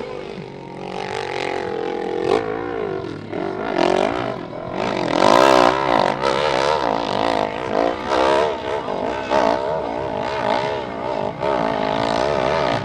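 Big-displacement hill-climb motorcycle engine at high revs, the pitch rising and falling over and over as the throttle is worked and the rear tyre spins and grips on the climb. It is loudest around the middle.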